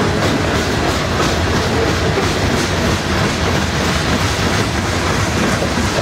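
Loaded covered hopper cars of a freight grain train rolling past, a steady rumble of steel wheels on the rails with faint repeated clicking over the rail joints.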